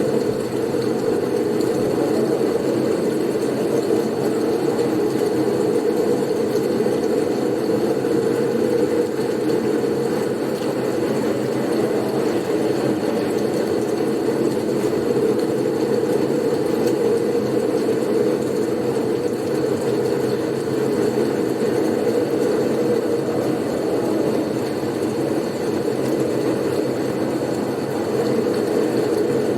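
Blizzard wind noise: a steady, low rushing sound with only slight swells and no breaks.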